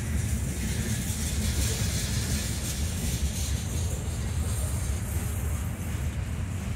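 Covered hopper cars of a freight train rolling past, a steady rumble of steel wheels on the rails.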